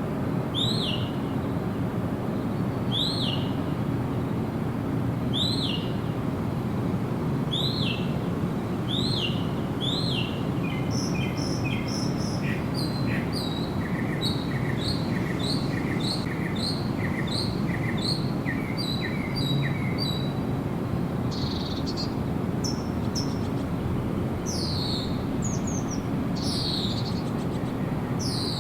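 Wild birds singing. Short high notes sliding down in pitch repeat every second or two. About ten seconds in, a quick run of short chirps joins them, and near the end come louder downward-sliding notes. Underneath is a steady low rushing background.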